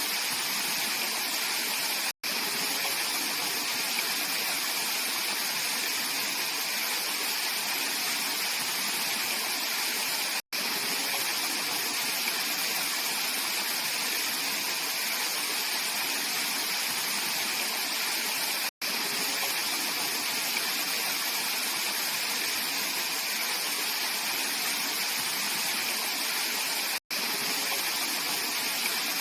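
Mountain valley stream flowing: a steady, even rush of water, broken by a very brief drop to silence about every eight seconds.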